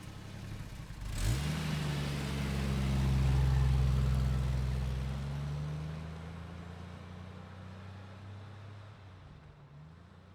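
An SUV driving past and accelerating: its engine note jumps up in pitch about a second in, swells to its loudest a couple of seconds later, then fades away as it moves off.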